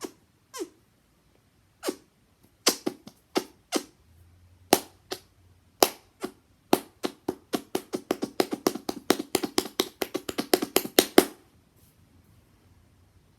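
Hand noises: cupped hands pressed and clapped together to make short, hollow pops, with a quick falling squeak near the start. The pops are scattered at first, then come in a fast run of about five a second that stops abruptly a couple of seconds before the end.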